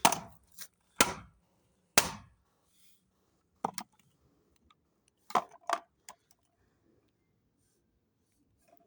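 A series of sharp cracks: three loud ones about a second apart, then a few weaker ones scattered after them.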